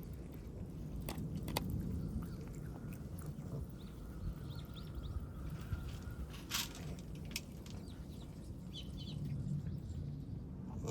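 Stray kittens chewing and crunching their food, with scattered small clicks over a low steady background hum.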